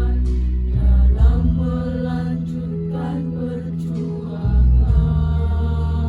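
Adult choir singing long held notes, the chord changing about a second in and again near the end.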